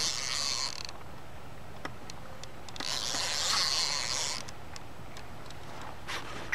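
Fishing reel's drag buzzing as a hooked catfish pulls line off, in two runs: one that ends just under a second in and one of about a second and a half starting near three seconds, with a few faint ticks between.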